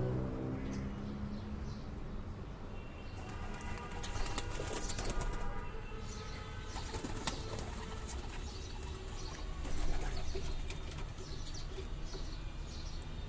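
Domestic pigeons flapping their wings in bursts, with a low coo fading out in the first second.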